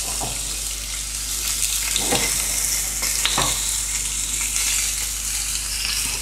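Food sizzling steadily in a hot pan on the stove, with a couple of brief knocks partway through.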